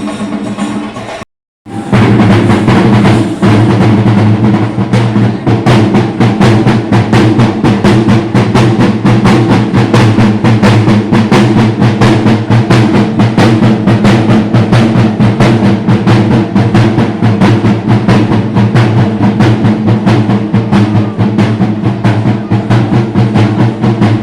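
Chenda drum ensemble playing a fast, loud Thira (Theyyam) festival rhythm, a dense unbroken stream of rapid strokes. The sound cuts out briefly about a second and a half in, then the drumming resumes at full strength.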